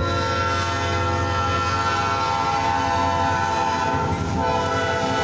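Two-unit diesel freight train passing close by, led by locomotive CFE #2095, with its air horn blowing a long, loud blast over the low rumble of the locomotive. The horn breaks briefly about four seconds in, then sounds again.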